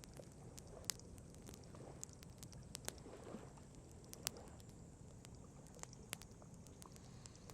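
Wood campfire crackling: irregular sharp pops and snaps of burning wood, a few louder ones about one, three and four seconds in, over a faint steady background hiss.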